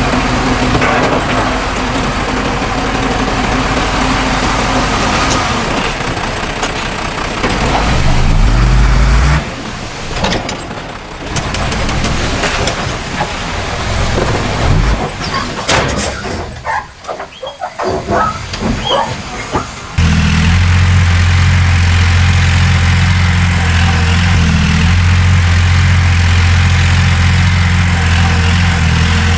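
Heavy diesel engines of earthmoving machinery running, with a rising rev about eight seconds in. The sound cuts abruptly to a quieter stretch of scattered knocks and clicks. About twenty seconds in it cuts to a loud, steady low engine drone.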